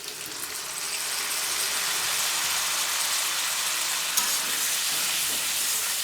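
Smoked pork, potato and tomato curry sizzling in a hot pan after a splash of water, the hiss rising over the first second and then holding steady, with a few faint ticks of stirring.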